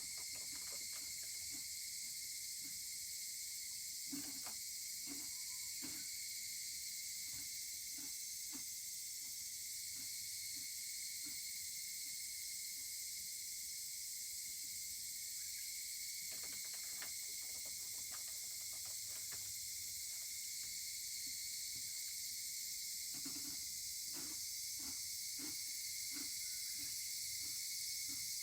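Wood fire crackling with irregular small pops and ticks, over a steady high-pitched chorus of insects.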